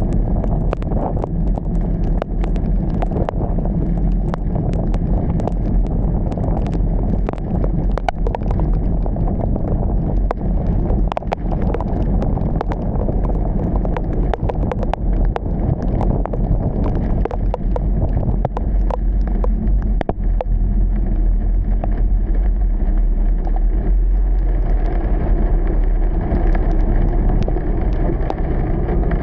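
Car driving through heavy rain: a steady low rumble of engine and tyres on a wet road, with many sharp, irregular taps of raindrops striking the vehicle.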